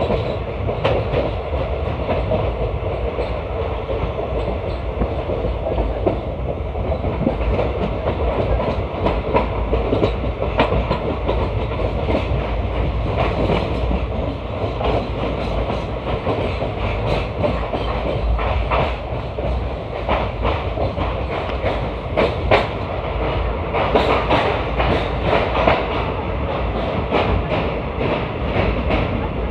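Indian Railways ICF passenger coach running at speed: a steady rumble of wheels on track with clickety-clack over rail joints, the sharp clicks coming more often in the second half.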